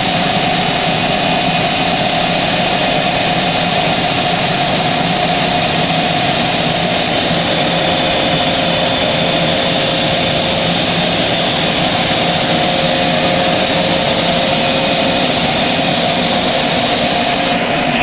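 Automatic car wash machinery running: a loud, steady rushing noise with a droning hum that holds level throughout.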